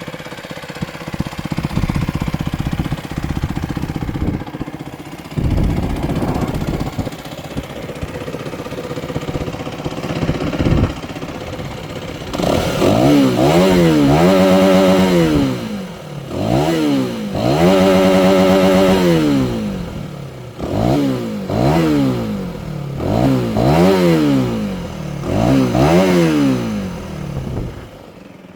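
Aprilia Tuono 125's single-cylinder four-stroke engine idling with a couple of short blips. From about halfway it is revved hard: two long revs held flat against the rev limiter, then several quicker throttle blips, each rising and falling in pitch.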